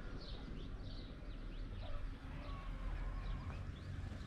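Birds chirping: many short, quick calls that slide downward, repeating throughout, over a low steady rumble.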